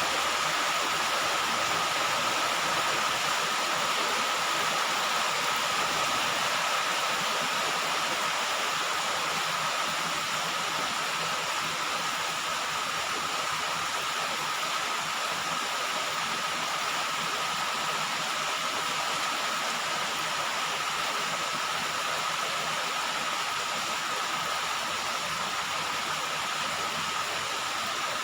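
Heavy rain falling on a roof, a steady, even hiss without distinct drops.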